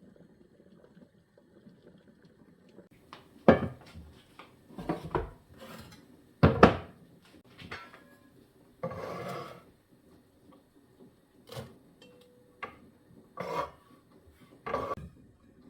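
Kitchen utensils and dishes knocking and clinking in short, separate strikes, the sharpest a few seconds in. About nine seconds in comes a noisy sound about a second long.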